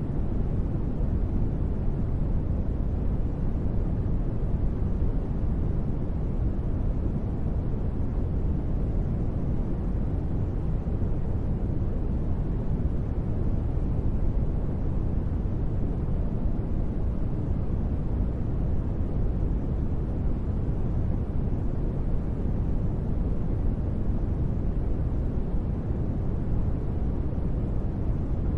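Steady ambient noise bed for a space-relaxation track: an even, unchanging hiss-like rush that is heaviest in the low end and thins out toward the treble, with no tones or events.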